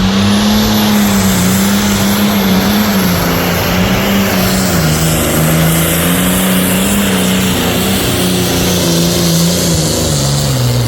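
Pro stock pulling tractor's turbocharged diesel engine running flat out under load while pulling the sled. Its pitch wavers up and down, and a high whine rises at the start and holds.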